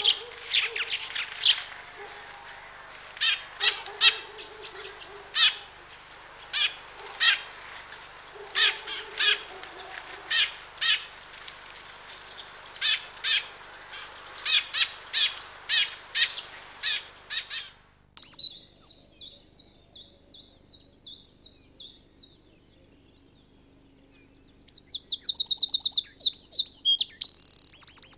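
Birds singing: short sharp calls repeated about once or twice a second. About two-thirds of the way in it cuts abruptly to different birdsong, a run of quick high chirps followed by a loud, rapid trilling song near the end.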